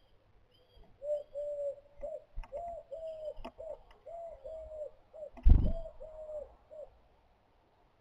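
A bird calling in a run of about a dozen short, low, arched hooting notes, roughly two a second, stopping about seven seconds in. Several sharp knocks fall among the notes, and one loud thump about five and a half seconds in is the loudest sound.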